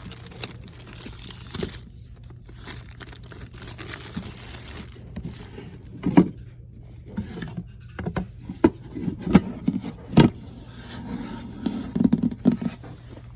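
Goods being handled and moved about: rustling and scraping, then a run of short knocks and thumps, as of things being picked up and set down.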